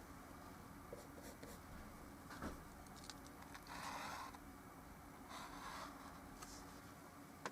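Paintbrush working oil paint on a small canvas: a few light ticks, then two longer scrubbing strokes about four and five and a half seconds in. Faint.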